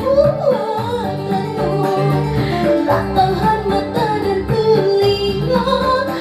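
A woman singing a dangdut song over a recorded backing track, her melody gliding and wavering above a steady bass line.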